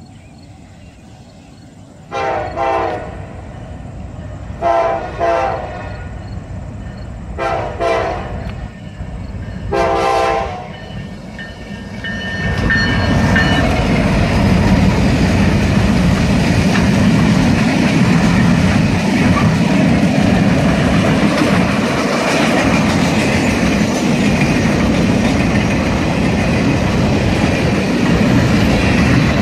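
Norfolk Southern diesel freight locomotive's air horn sounding four blasts for a grade crossing, each about a second long and a couple of seconds apart, as the train approaches. After the last blast the lead locomotives pass close by with a loud, steady diesel rumble. The rattle and clickety-clack of the boxcars rolling past follows.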